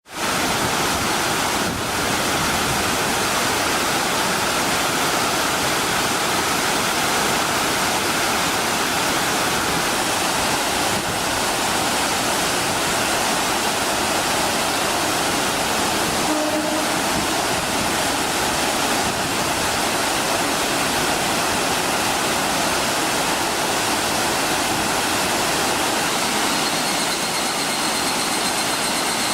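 Steady rushing of water pouring over Ryumon Falls, a wide waterfall. Near the end a faint high whine joins in.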